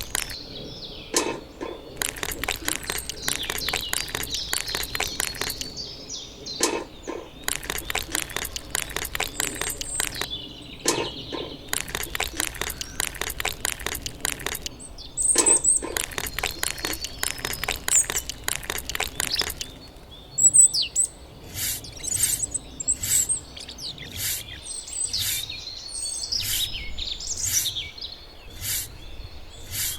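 Small birds chirping, over a dense run of rapid clicks and taps that stop about two-thirds of the way through. After that come evenly spaced ticks a little more than one a second, with high chirps between them.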